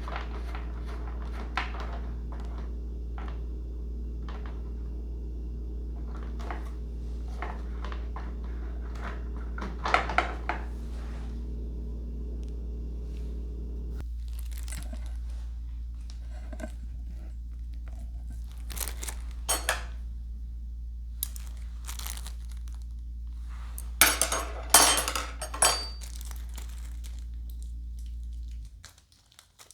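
Packaging and plastic parts being crinkled and handled, with scattered clicks and small knocks, loudest in short clusters about ten, twenty and twenty-five seconds in. A steady low hum runs underneath and cuts off near the end.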